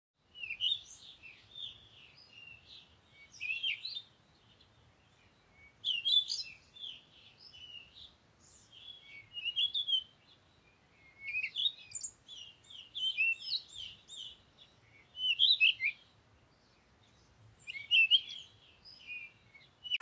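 Small songbirds chirping and twittering in quick phrases every couple of seconds, with short pauses between.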